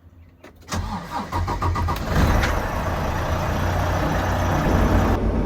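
Semi-truck diesel engine starting up less than a second in, then running steadily.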